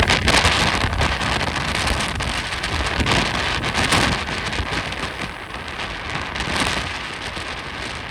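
Strong Santa Ana wind gusting, a dense rushing noise that swells and eases and dies down near the end, with a faint steady high tone underneath.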